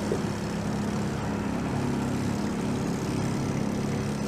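A boat's motor running steadily at an even pitch.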